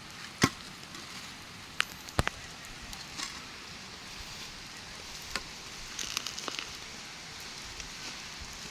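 Steady rain, an even hiss, with scattered sharp taps and knocks: the loudest about half a second in, a few more around two seconds, and a small cluster near six seconds.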